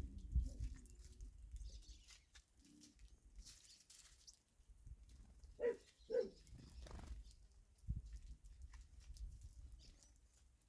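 Two short animal calls about half a second apart, a little past the middle, over a faint low rumble.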